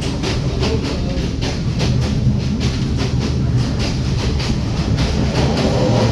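Train running along the track: a steady rumble with repeated clacks of the wheels over the rail joints, several a second.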